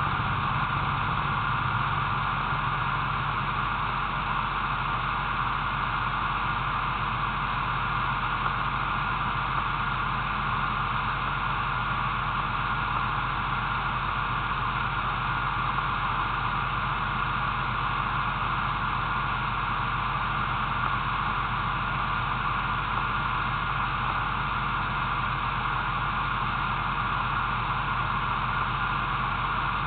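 Steady hiss with a low hum beneath it: a car idling in stopped traffic, heard through a low-mounted action camera's microphone.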